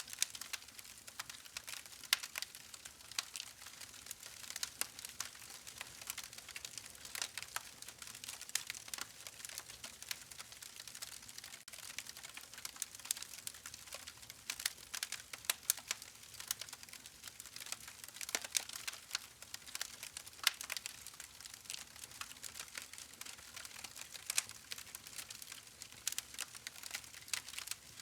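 Campfire crackling: burning wood popping and snapping in quick irregular clicks over a soft hiss of flames.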